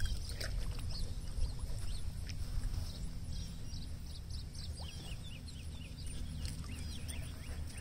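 Birds chirping: a quick run of short, high chirps, thickest in the middle of the stretch, over a low steady rumble.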